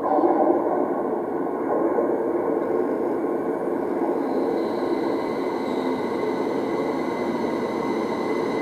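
Electric multiple-unit train running into an underground station platform out of the tunnel: a steady rumble that echoes in the tunnel, with a faint high whine coming in about halfway as it draws in to stop.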